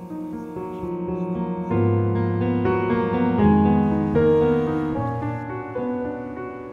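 Background music: slow piano playing sustained chords and notes.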